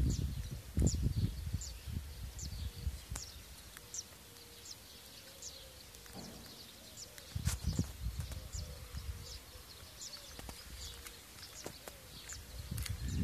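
A small bird repeating a short, high, falling chirp about twice a second, with low rumbles on the microphone at the start, about seven seconds in, and again at the end.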